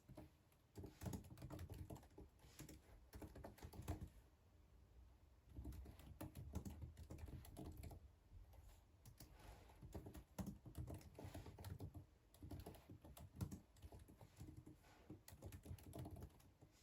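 Faint typing on a computer keyboard: four runs of rapid key clicks, each a few seconds long, with short pauses between them.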